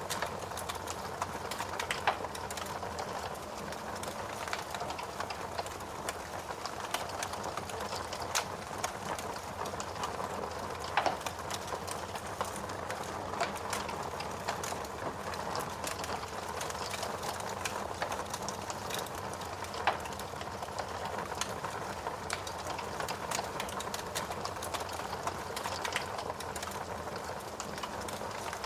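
Steady rain hiss with a wood fire crackling over it: frequent small irregular pops and a few louder snaps.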